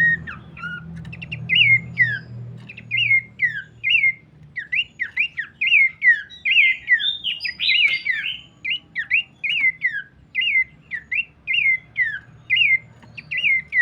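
Abbott's babbler singing: a steady run of short whistled notes that dip and hook back up, about two a second, with a busier tangle of overlapping notes about halfway through.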